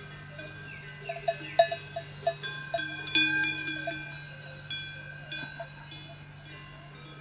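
Metal bells clinking and ringing irregularly, several strikes close together between about one and four seconds in, over a steady low hum.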